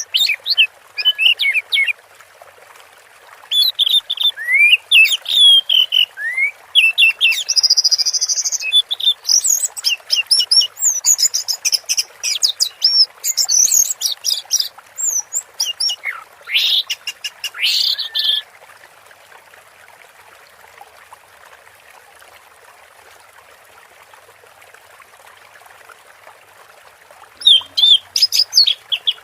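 Orange-headed thrush singing a fast, varied medley of whistles, chirps, rising and falling glides and trills, in the dreamy 'teler' mood that bird keepers prize. The song breaks off for about nine seconds after the middle and starts again near the end.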